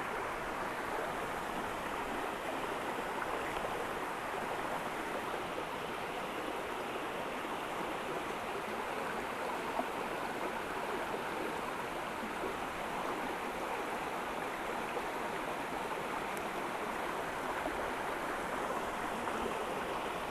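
Small mountain creek water tumbling over rocks at a little waterfall, a steady rush.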